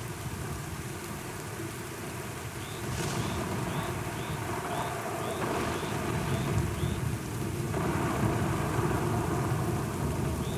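Steady rain with a low rolling rumble of thunder that swells through the middle and eases near the end. A faint short high chirp repeats about twice a second over the rain.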